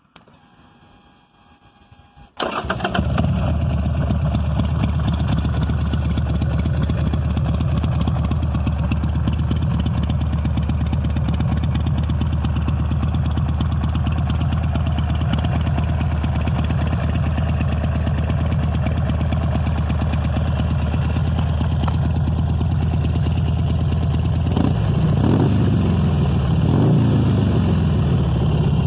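2005 Buell XB9S motorcycle's air-cooled V-twin engine starting up about two seconds in and idling steadily, then revved with a few quick throttle blips near the end.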